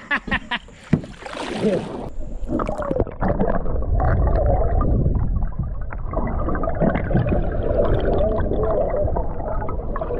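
A splash and a few knocks, then a steady, muffled gurgling rush of creek water, with the high end suddenly gone about two and a half seconds in, as the action camera goes under the surface.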